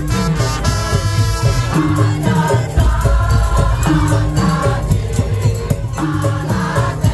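Madurese musik daul (tong-tong) ensemble playing loudly: heavy drums under a melody line of held notes.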